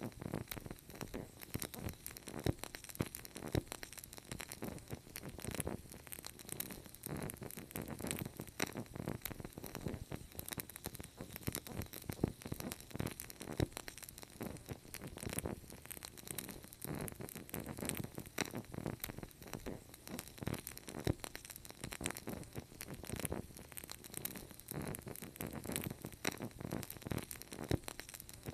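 Wood fire crackling: a dense, continuous stream of small pops and snaps over a low rumble of burning.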